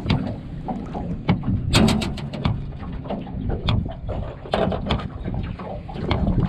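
Wind buffeting the microphone with a steady low rumble, under a run of short clicks and knocks, most of them close together about two seconds in.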